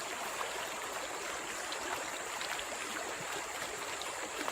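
Forest stream running: a steady rush of flowing water, with a few faint small clicks.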